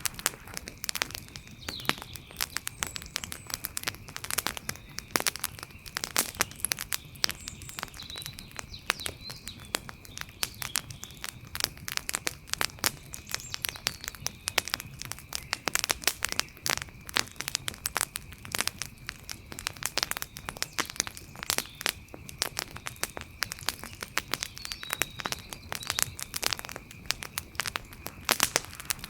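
Wood fire crackling, with dense, irregular sharp pops and snaps. A faint steady high tone and a few faint chirps sit behind it.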